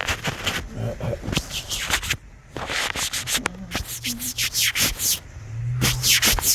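Cloth rubbing quickly over wet gear close to the microphone, wiping it dry in runs of rapid strokes with two short pauses.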